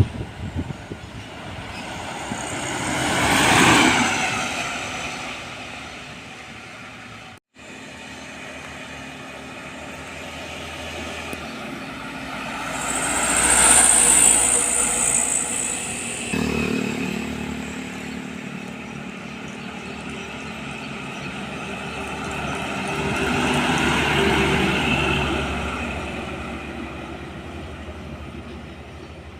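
Trucks' diesel engines passing by on a road one after another, three pass-bys in all, each growing louder and then fading away. A high hiss rides over the second pass.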